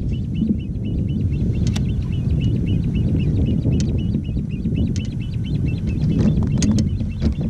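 Steady low rumble of wind on the microphone, with a bird trilling faintly over it in quick, even chirps, about five a second, and a few light clicks.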